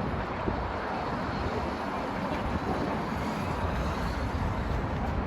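A steady low rumble of distant vehicle noise, with no distinct events.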